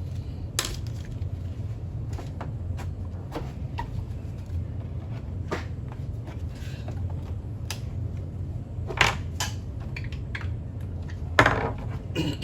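Scattered clicks and knocks of small parts and tools being handled during a repair, over a steady low hum. Two louder clatters come in the last third.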